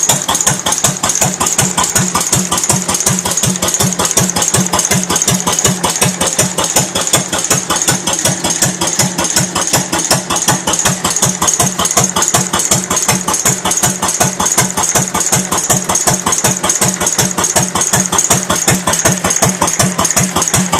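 1950 Cooper XD 4 hp stationary engine running steadily with an even, rapid beat.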